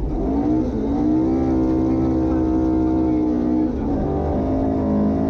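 Ford Escort RS 2000 rally car's engine heard from inside the cabin under hard acceleration on a stage. The revs climb over the first second and hold, drop briefly just under four seconds in, then build again.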